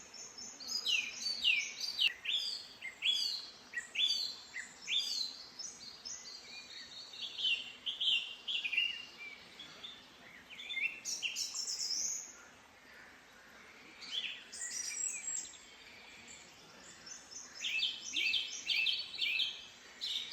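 Several songbirds singing and calling at once: quick chirps and short down-slurred notes overlapping, easing off for a few seconds past the middle, then busy again near the end.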